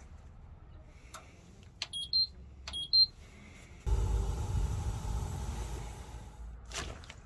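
Paseco heater's control panel: button clicks and two short two-note electronic beeps as it is switched on, then a steady whoosh of its blower and burner starting up for about three seconds before easing off.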